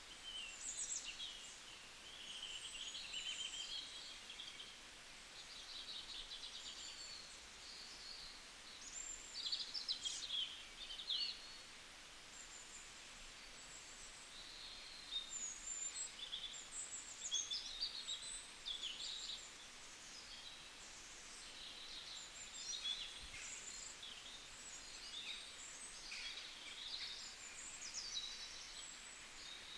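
Several wild birds chirping and calling in the woods, many short high chirps and trills overlapping throughout, over a faint steady hiss.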